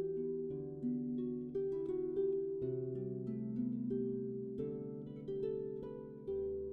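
Solo harp playing a slow melody: plucked notes ring out and fade, over low bass notes that change about every two seconds.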